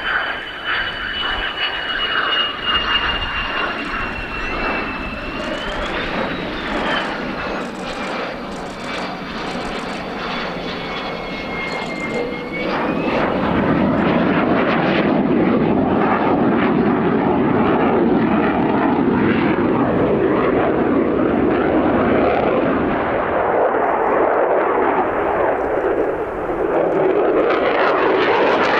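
Fixed-wing display aircraft's engines heard from the ground as it passes: a high whine slowly falling in pitch over the first twelve seconds or so, then louder, deeper engine noise from about thirteen seconds in.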